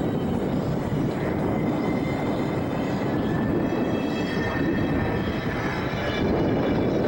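Airplane engine noise: a steady roar with a faint high whine that drifts slightly lower in pitch partway through.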